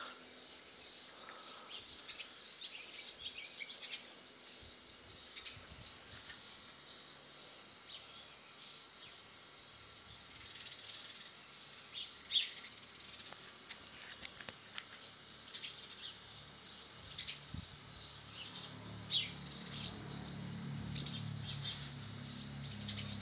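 Small birds chirping outdoors: rows of short, quick chirps with a few louder falling calls now and then. A low steady hum comes up in the last few seconds.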